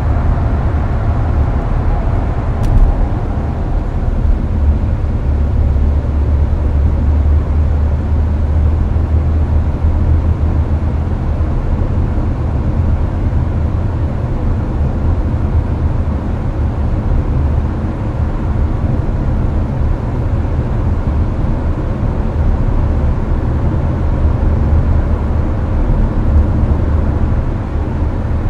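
Steady low road and tyre rumble inside the cabin of a Hyundai Avante cruising on an expressway, mixed with the hiss of the air-conditioning fan. A single faint click comes about three seconds in.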